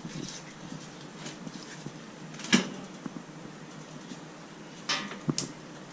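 Workshop clatter from hand work on a motorcycle's drive chain and sprockets: a sharp clank about halfway through and two shorter knocks near the end.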